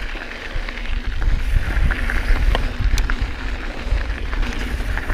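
Mountain bike ridden along dirt single track: wind buffeting the microphone as a steady low rumble, with tyre noise and scattered small rattling clicks from the bike.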